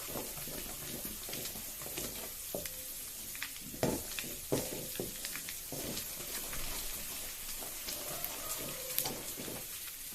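Ginger-garlic paste frying in melted butter and oil in a pan, a steady crackling sizzle. A few louder knocks from stirring come about four seconds in.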